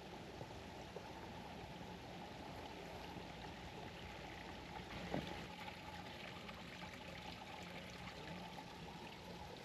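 Steady trickle of running water from a small garden stream, with one brief soft knock about five seconds in.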